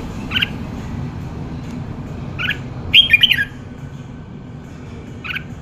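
Red-whiskered bulbul calling: short separate notes about half a second in, at two and a half seconds and near the end, with a louder quick run of notes around three seconds in. A steady low hum runs underneath.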